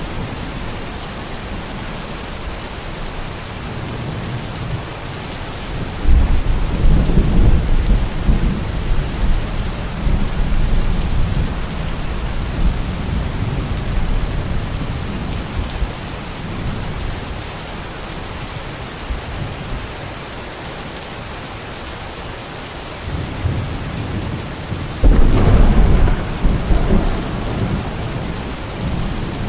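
Steady rain during a thunderstorm, with rolls of thunder: a loud rumble breaks in about six seconds in and fades over several seconds, and another comes near the end.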